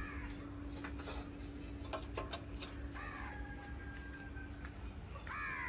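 Birds calling outdoors in the early morning: short pitched calls about three seconds in and again near the end, over a faint steady hum.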